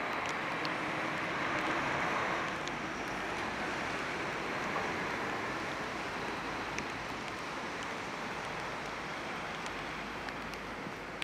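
Rainy city street: a steady hiss of rain and traffic on wet road, swelling over the first two seconds or so and then easing, with scattered light drip ticks.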